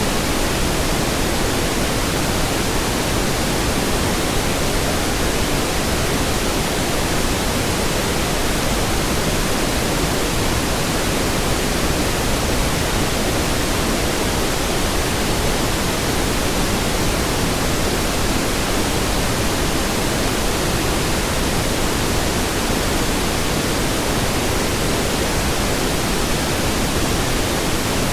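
Pink noise: a steady, unchanging hiss spread across all pitches, weighted toward the low end.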